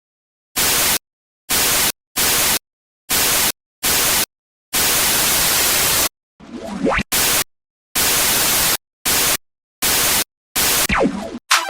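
Bursts of white-noise static, about a dozen, switching abruptly on and off with dead silence between them, one longer burst lasting over a second. Twice, near the middle and near the end, a swept tone falls quickly in pitch under the hiss.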